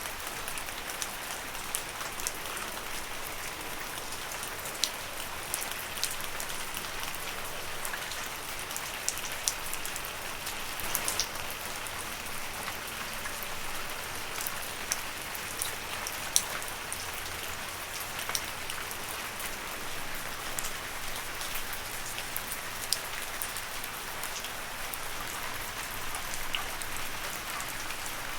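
Steady gentle rain falling on leaves, an even patter with many separate drops ticking sharply through it.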